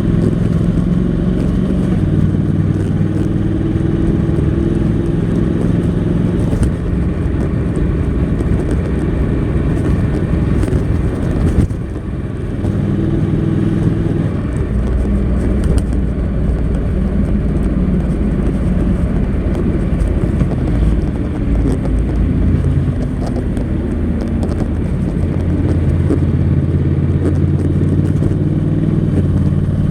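Honda NC700X's parallel-twin engine running through its stock exhaust while riding. The engine note holds steady for a few seconds at a time, then changes pitch, with a brief drop in level about twelve seconds in.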